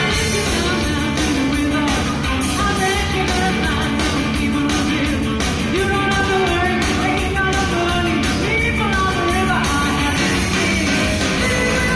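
Live rock music: voices singing a 1970s rock song over electric guitar and a steady drumbeat.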